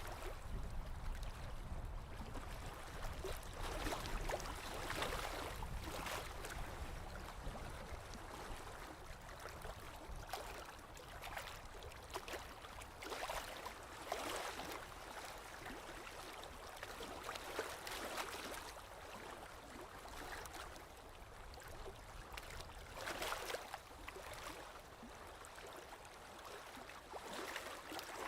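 Small waves of lake water lapping against the shore, with soft splashes every few seconds over a steady wash of water.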